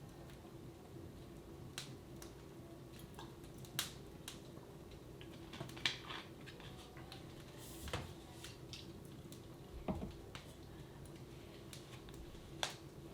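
Wood fire in a fireplace crackling, with irregular sharp pops every second or two over a steady low household hum.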